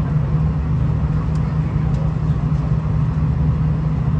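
V/Line VLocity diesel railcar heard from inside the carriage: a steady low engine and running drone, with a couple of faint ticks near the middle.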